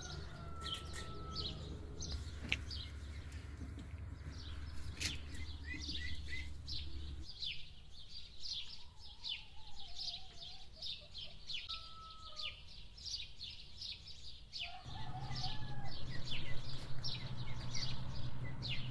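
Small birds chirping rapidly and continuously in the garden trees, several short high chirps a second. A low steady hum sits underneath, dropping out about seven seconds in and coming back near the end.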